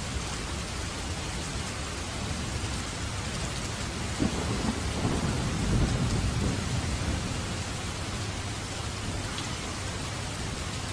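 Steady rain falling. About four seconds in, a sharp crack of thunder opens a low rumble that swells and fades over about three seconds.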